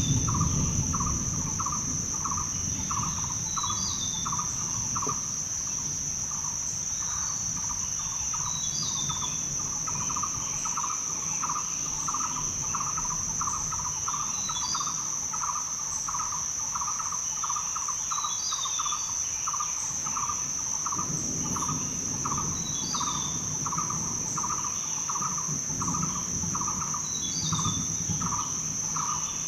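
Rainforest ambience: a steady high-pitched insect drone and a lower chirp pulsing about twice a second, with a short bird call repeating every two to three seconds. A low rumble comes and goes underneath.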